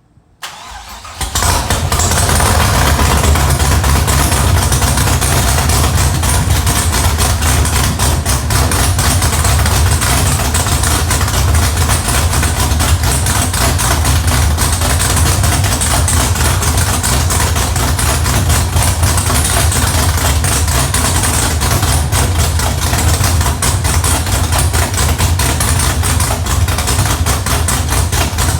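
2005 Pontiac GTO's 6.0-litre LS2 V8 cranking briefly, catching about a second in, then running loud and steady at idle on its first start-up.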